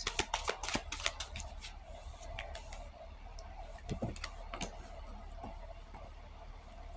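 A quick run of light clicks and ticks in the first second or two, then a few scattered soft clicks, over a faint steady hum.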